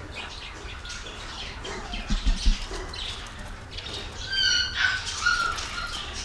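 Outdoor yard ambience with a bird calling in a few short, high, clear notes about four seconds in, and a few soft low thuds a little earlier.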